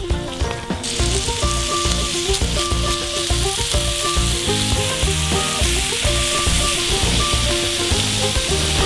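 Pork, shrimp and vegetables sizzling in sesame oil on a black griddle pan over a portable gas stove as they are stir-fried. The sizzle grows louder about a second in and then holds steady, with background music under it.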